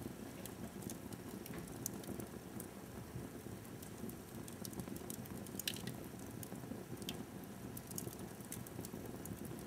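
Wood fire burning in a fireplace: a low steady rush of flames with scattered sharp crackles and pops.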